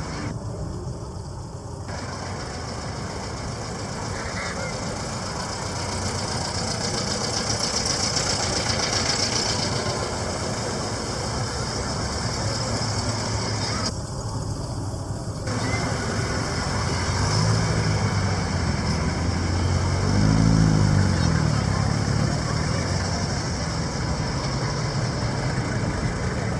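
Car engines running as cars cruise slowly past along a street, with one engine revving up and dropping back about twenty seconds in.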